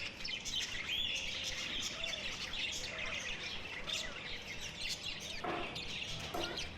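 Many caged birds chirping and calling over one another in rapid, overlapping high chirps, with a few lower arched calls in the middle. A person's voice comes in near the end.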